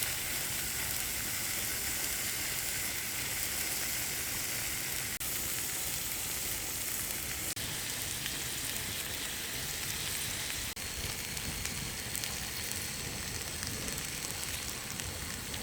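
Meat sizzling steadily on a thick iron griddle over a campfire.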